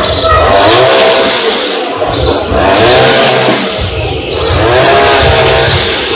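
A small petrol engine revving up and down, loud, with its pitch rising and falling about three times.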